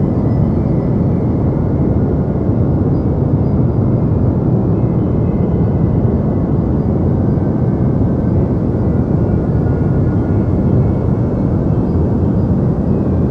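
Deep white noise: a steady, unchanging rushing hiss weighted towards low pitches, with little treble.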